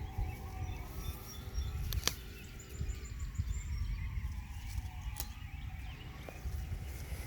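Emergency siren wailing slowly, its pitch falling, rising again, then sliding down, with small birds chirping high above it.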